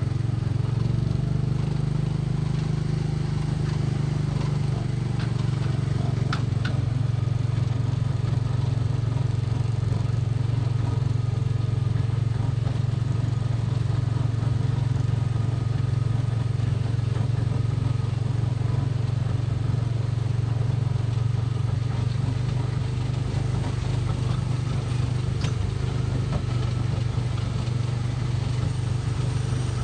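Small gasoline engine of a Tomorrowland Speedway ride car running steadily as it drives, heard from the driver's seat as a loud low drone.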